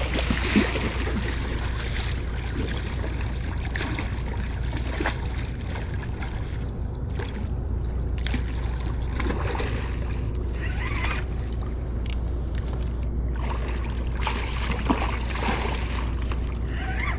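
River water washing and lapping at the shore in irregular swells over a steady low rumble, with a couple of small knocks.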